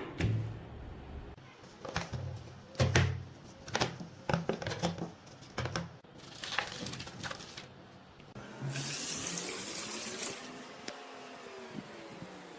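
Sharp knocks and clicks of rusted metal gun parts being handled. About two-thirds of the way in, water starts running hard from a tap. It eases to a quieter flow for the last couple of seconds.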